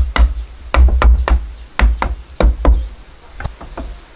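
Heavy blows striking wood, about eight loud thuds in uneven groups of two or three, then two lighter knocks near the end.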